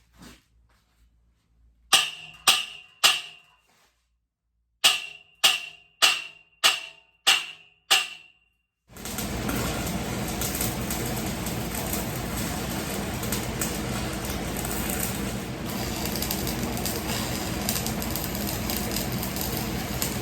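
Hammer blows ringing on steel, three and then six at about two a second. They are followed by the steady crackling hiss of a stick-welding arc that runs for the rest of the time.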